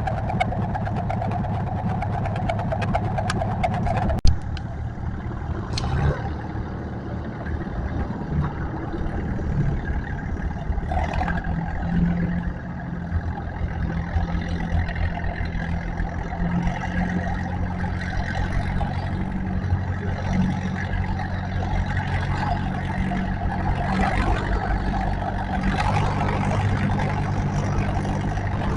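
Tractor engine running under load, a steady low drone that shifts in pitch now and then. A single sharp knock about four seconds in.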